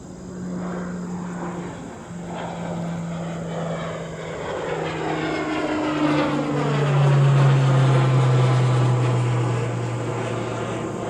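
Airplane climbing out after takeoff and passing overhead: a steady engine drone whose pitch drops as it goes by, growing louder to a peak about seven seconds in, then easing off.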